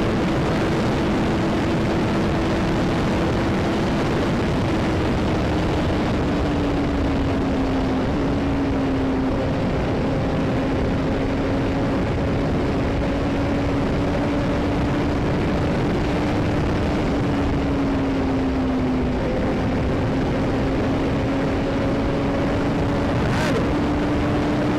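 Motorcycle engine running steadily at cruising speed under heavy wind noise on the microphone; the engine note dips briefly twice and recovers. A sharp click near the end.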